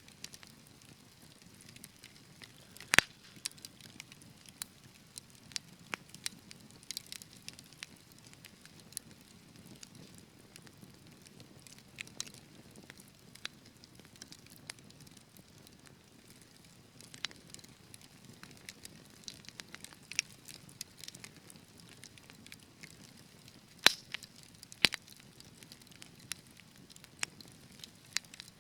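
Wood fire in a fireplace crackling, with a soft steady hiss and irregular sharp pops; the loudest pops come about three seconds in and twice close together near the end.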